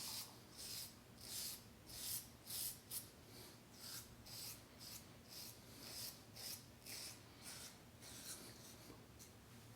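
Merkur Futur adjustable double-edge safety razor scraping through two days' stubble on the neck, against the grain, in short quick strokes about two a second that grow fainter near the end.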